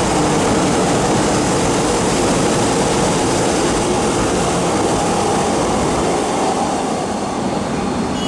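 An MTR M-Train electric multiple unit running through a station at speed without stopping: a steady loud rush of wheels on rail and running gear as the cars pass close by, easing off a little near the end as the last car goes past.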